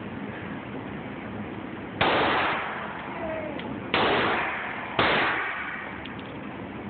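Three handgun shots, the second about two seconds after the first and the third a second later. Each is a sharp crack followed by a decaying echo lasting about a second.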